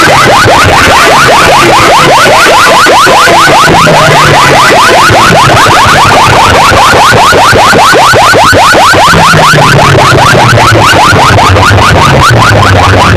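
A siren-like electronic effect of rapid repeating chirps, about six a second, over a stepping bass line, blasted at full volume through PA loudspeaker sets and heavily distorted.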